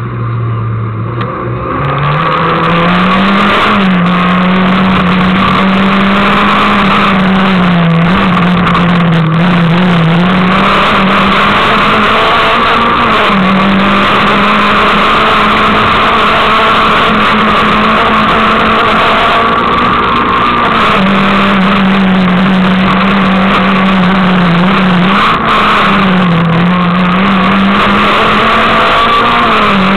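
Peugeot 306 S16's 2.0-litre 16-valve four-cylinder engine running hard at high revs, heard from inside the car at full rally pace. The loud, steady engine note dips in pitch and climbs back several times as the driver lifts and changes gear between corners.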